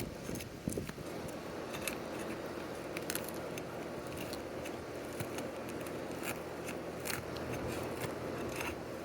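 Asphalt roof shingles being pried up to break their seal: irregular sharp clicks, crackles and scraping over a steady low hum. The shingles are brittle and tear and delaminate as they are worked loose.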